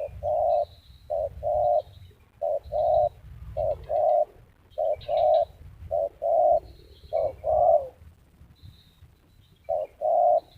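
Spotted dove cooing: a deep call of short paired notes, repeated about seven times at roughly one-second spacing, then after a pause of about two seconds another pair near the end.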